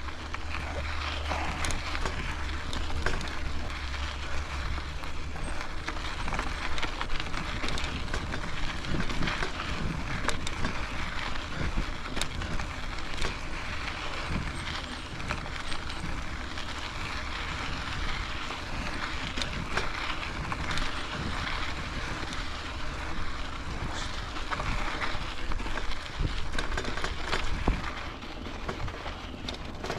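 Cradiac Alpha mountain bike being ridden: steady tyre and wind noise with frequent small clicks and rattles, and wind rumbling on the microphone, heavier in the first several seconds.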